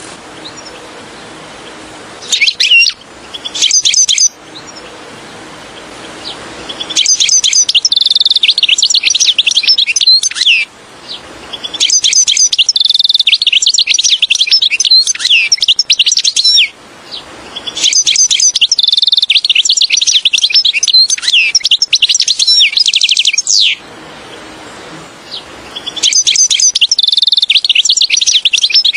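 European goldfinch singing: fast twittering, tinkling song phrases. Two short snatches come near the start, then several bouts of a few seconds each, separated by short pauses.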